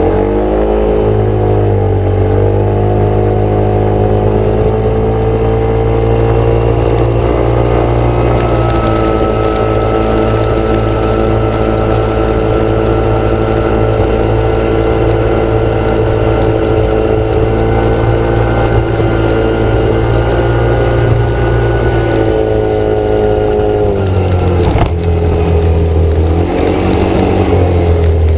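An engine running steadily. Its pitch rises about a second in, holds, and falls back toward idle near the end.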